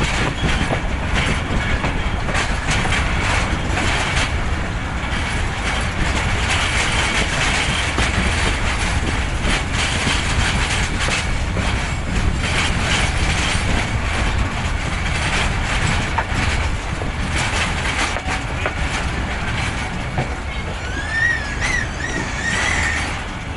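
Karakoram Express passenger train running on the rails, its wheels clattering steadily over the rail joints as it comes into the station. Near the end a brief wavering high squeal sounds over the clatter.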